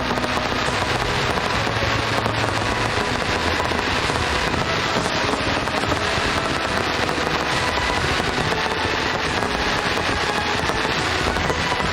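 Starmine fireworks barrage: a rapid, continuous volley of launches and overlapping bursts, so dense that the bangs and crackles merge into one unbroken rumble.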